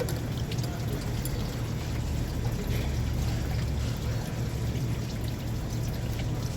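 Engine coolant pouring in a steady, unbroken stream.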